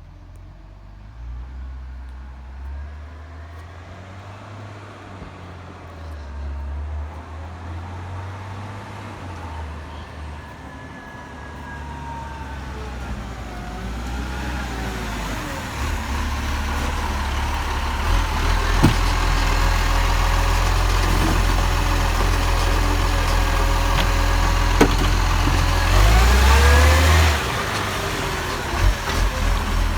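Garbage truck engine running, growing steadily louder through the second half, with whines that rise and fall in pitch and a few sharp clicks.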